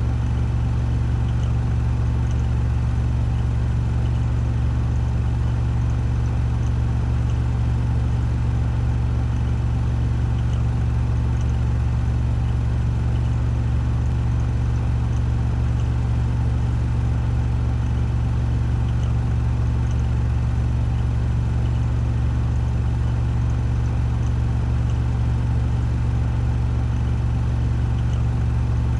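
Washing machine on a 1400 rpm spin cycle: a steady, even drum-and-motor hum with a strong low drone.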